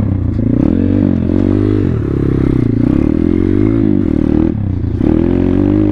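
2019 Thumpstar 140cc pit bike's single-cylinder four-stroke engine being ridden on a dirt trail, its pitch rising and falling repeatedly with the throttle, with a brief drop about four and a half seconds in before it picks up again.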